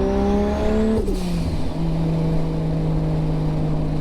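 Car engine under acceleration, its pitch climbing steadily, then dropping sharply about a second in with a short burst of noise as it changes gear. After that it pulls on at a steady pitch.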